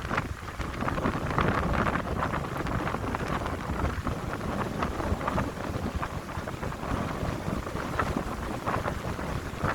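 Wind blowing through pine trees in uneven gusts, with a low rumble of wind buffeting the microphone.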